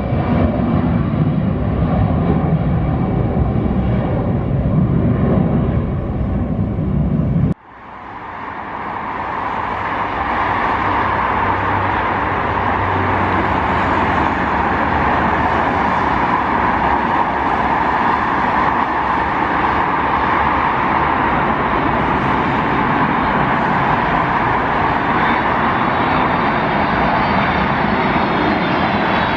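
Airliner jet engine noise: a loud, deep rumble that cuts off abruptly about a quarter of the way in, then a steady jet roar that fades back up and holds, with a faint rising whine near the end.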